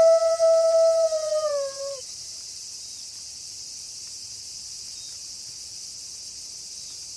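A wolf's long howl held on one steady pitch, sliding down and ending about two seconds in. After it only a steady high hiss remains.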